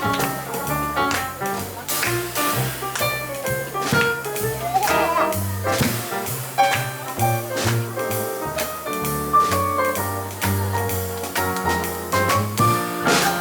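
Live jazz trio of piano, double bass and drums playing an instrumental passage with no vocals: a walking double-bass line under piano chords and melody, with cymbals keeping time.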